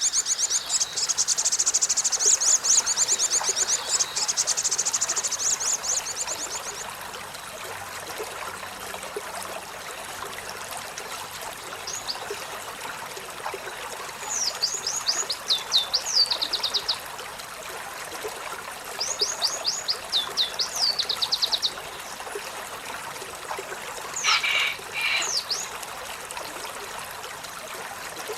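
Olive-backed sunbird singing: a fast high trill of quick descending notes for the first six seconds or so, then three short bursts of similar notes, over a steady background hiss.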